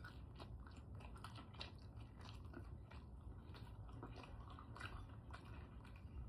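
A person chewing and crunching food close to the microphone: faint, irregular crunches and clicks of eating.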